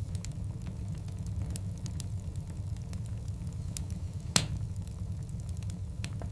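Wood fire of burning logs, with a steady low rumble under scattered crackles and one loud, sharp pop a little over four seconds in.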